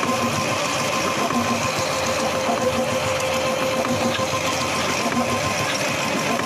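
Factory machine running steadily: an even, fast mechanical chatter with a steady hum.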